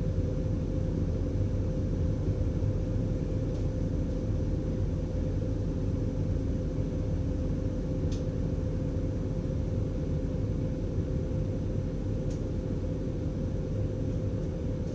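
Dutch Railways DDZ double-deck electric train heard from the driver's cab while running along the track: a steady low rumble with a constant hum, broken by a few faint ticks.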